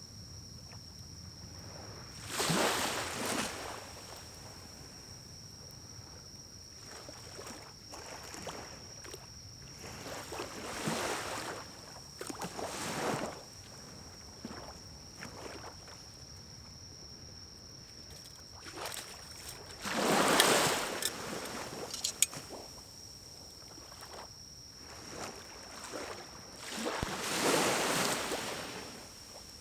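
Pine cones burning in a small wood-burning stove, with a few sharp crackles and about five short swells of rushing noise, each lasting a second or so.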